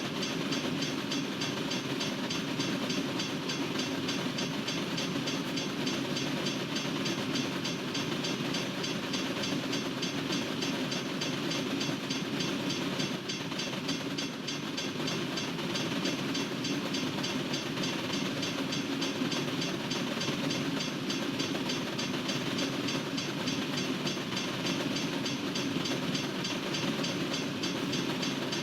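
Freight cars of a long Norfolk Southern train rolling steadily past, steel wheels running on the rails.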